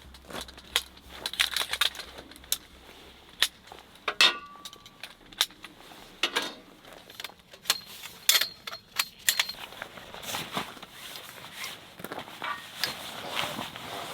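Objects being handled: irregular clicks, clinks and knocks with rustling, including one short metallic ring about four seconds in.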